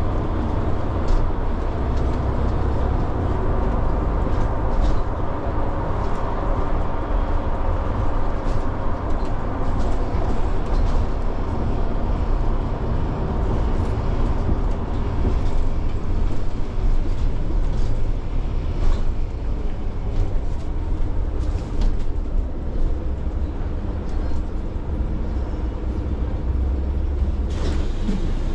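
Steady low rumble of a city bus running, heard from inside the cabin, with occasional brief rattles and clicks.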